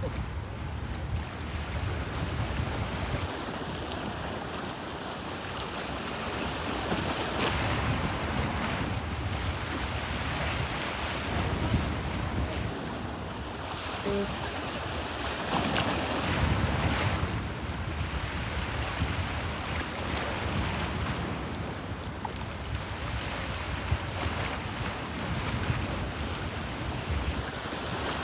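Bosphorus sea waves washing against the shore, swelling louder several times, with wind buffeting the microphone as a low rumble.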